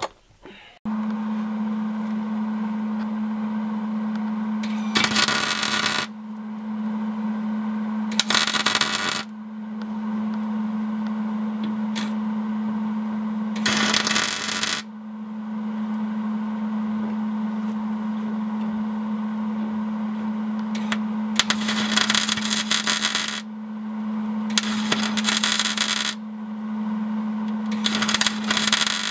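Electric welder tack-welding a broken exhaust hanger back onto its bracket: six short bursts of arc crackle, each a second or two long, over a steady hum. The bracket is caked in dirt, which the welder blames for poor welds.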